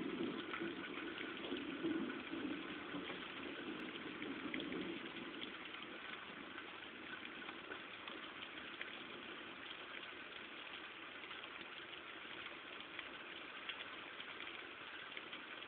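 Heavy rain falling, a steady hiss. A low rumble sits under it for about the first five seconds, then dies away.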